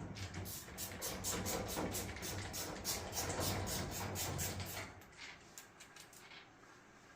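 Screws being driven into the dryer's sheet-metal front frame: a quick run of short clicks over a low hum, lasting about five seconds before it stops.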